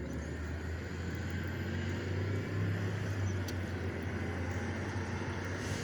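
Car engine running steadily, a low even hum with faint road noise.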